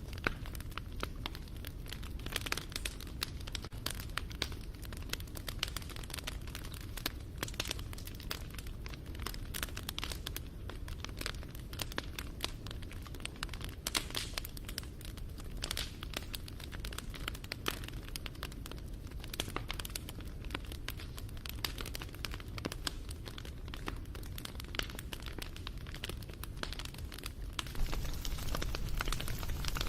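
Wood bonfire crackling: many irregular sharp pops and snaps over a low steady rush of the flames, the rush growing louder near the end.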